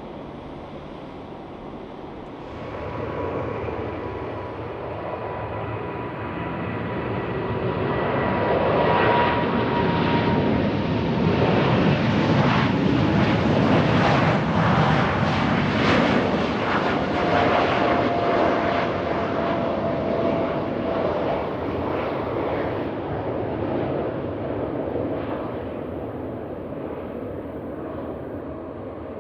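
Jet airliner passing by. The engine noise builds to a peak about halfway through and then fades, with a whine that slides down in pitch as the aircraft goes past.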